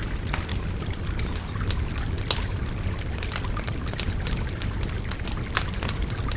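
A wood fire crackling, with frequent sharp pops, the sharpest about two seconds in, over the steady rush of a babbling river.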